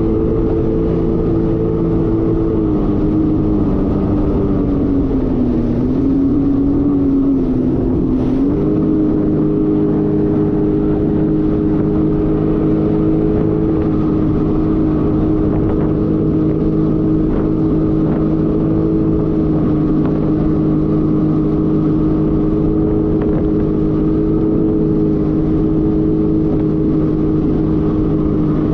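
Jet ski engine running at steady cruising speed, with loud water and engine noise. Its pitch sags briefly as the throttle eases about three to eight seconds in, then climbs back and holds steady.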